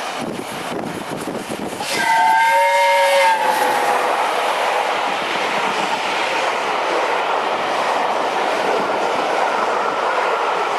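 Steam locomotive 60163 Tornado sounds its whistle about two seconds in: a chord of several notes held for about a second and a half, dipping slightly in pitch as it ends. The engine and its train of coaches then pass, a steady loud rush and clatter of wheels on rails.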